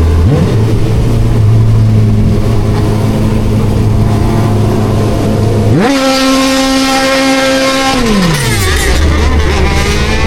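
Suzuki Bandit 1250's inline-four engine running steadily at low revs, then revved hard about six seconds in, held high for about two seconds and let fall back.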